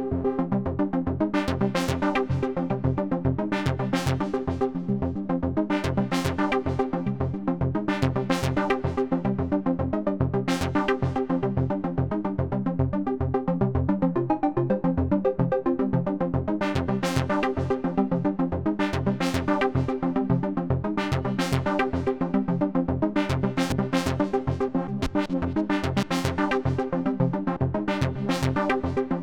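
Polyend Medusa hybrid synthesizer playing a sequenced electronic pattern: fast pulsing bass notes under held chord tones, with short hiss-like percussive hits on top. Its analog oscillators give the raw, rich sound.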